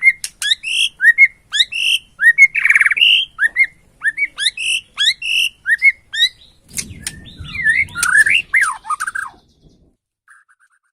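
Borneo white-rumped shama (murai batu) singing: short rising whistles with sharp higher chirps repeated about twice a second, broken by two harsh buzzy rattles. About seven seconds in the song turns into a fast jumble of notes over a low rumble, and it stops about two seconds later.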